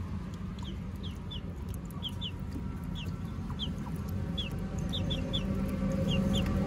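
Small birds peeping: short, high, falling chirps, often in pairs, about two a second, over a steady low rumble.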